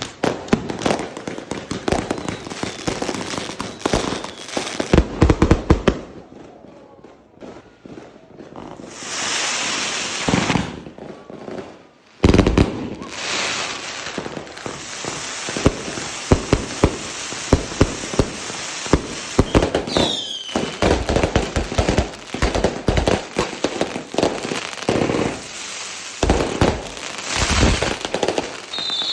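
Fireworks and firecrackers going off: rapid crackling and sharp bangs, easing off briefly about six seconds in, with a rushing hiss about ten seconds in and a short falling whistle about two-thirds of the way through.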